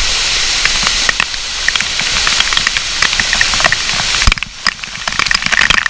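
Loud steady rush of falling water from a waterfall. About four seconds in the rush drops away and a quick run of sharp clicks and taps follows.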